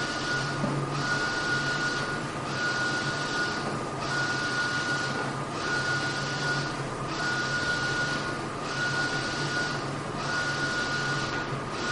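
Mutoh Blizzard wide-format printer printing: the print-head carriage sweeps back and forth with a steady whir and high tone, pausing briefly at each turnaround about every second and a half.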